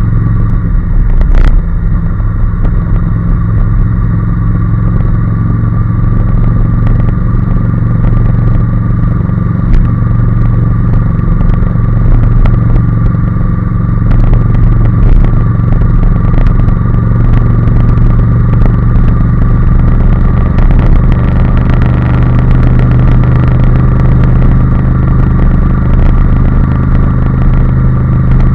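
Honda NC750S's parallel-twin engine running at a steady pitch under way, with one brief sharp click about a second and a half in.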